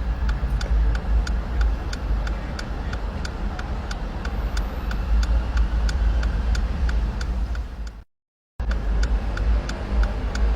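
Steady low rumble of road traffic with an even ticking, about two to three ticks a second. The sound cuts out completely for about half a second around eight seconds in.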